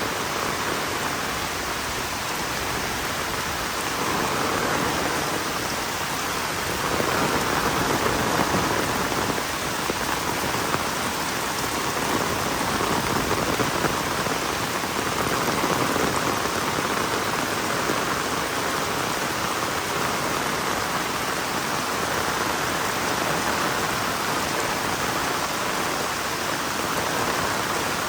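Heavy rain falling steadily, a dense even hiss that swells and eases a little every few seconds.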